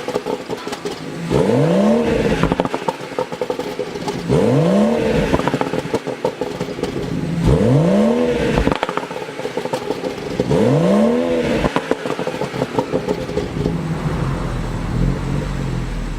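BMW 340i's 3.0-litre turbocharged straight-six on its stock exhaust, blipped four times about three seconds apart, each rev rising and falling quickly with crackles as the revs drop. It then settles to a steady idle for the last few seconds.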